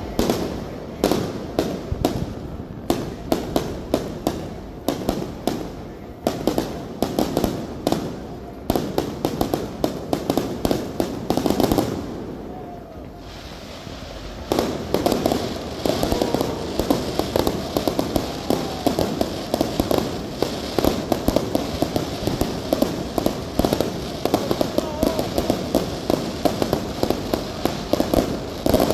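Fireworks display going off: rapid bangs and crackling bursts. A short lull comes about halfway through, then a denser run of crackling follows.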